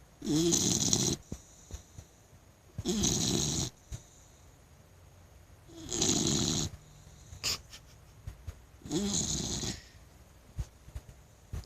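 Blue nose pit bull puppy snoring in her sleep: four snores, each about a second long, about three seconds apart.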